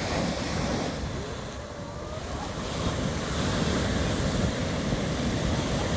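Surf washing onto the beach with wind buffeting the microphone: a steady rushing noise with a low rumble.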